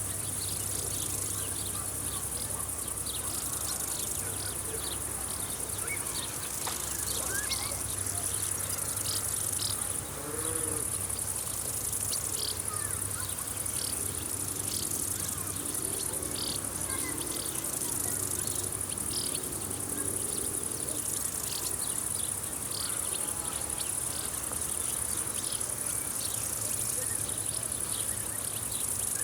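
Chorus of crickets chirring steadily at a high pitch, with scattered short ticks and faint distant bird calls.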